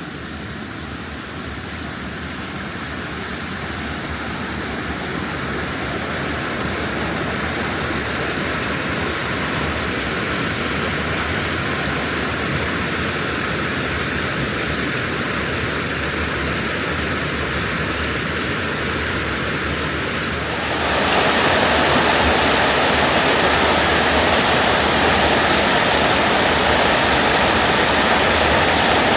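Rushing water, a steady dense wash of noise that grows gradually louder over the first several seconds, then jumps sharply louder about two-thirds of the way in.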